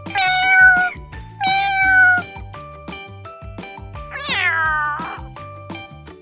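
Domestic cat meowing three times over background music with a steady beat; the third meow is longer and falls in pitch.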